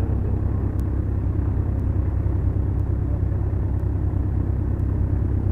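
Beechcraft Duchess's twin four-cylinder Lycoming piston engines running steadily, a loud, even drone heard from inside the cockpit.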